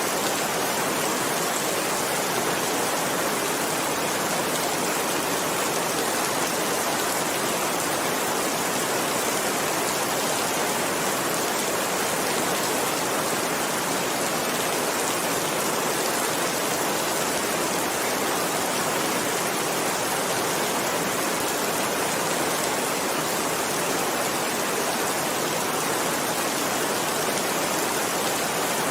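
Heavy rain falling, a steady dense hiss of rain.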